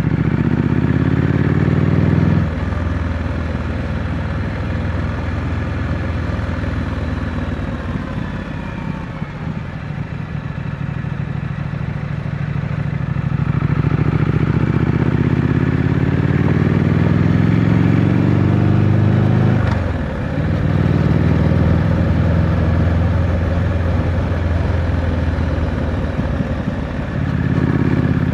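Triumph Scrambler 900's parallel-twin engine through its stock exhaust, under way on the road. It pulls up in revs, drops back about two seconds in and runs lower for a while. Then it pulls hard again, with a quick drop at a gear change about two-thirds of the way through, and rises again near the end.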